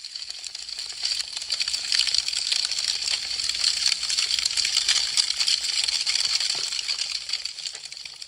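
Wood fire crackling and popping with dense rapid snaps over a hiss, fading in at the start, at its fullest in the middle, and fading out near the end.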